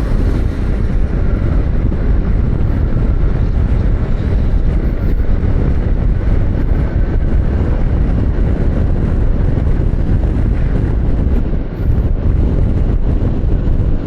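A moving motorcycle, heard as steady wind rush over the microphone mixed with engine and road noise.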